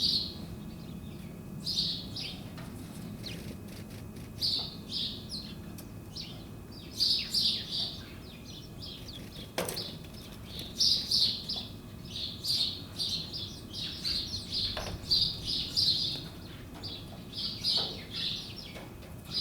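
Small birds chirping, short high chirps in quick clusters again and again, over a faint low background hum.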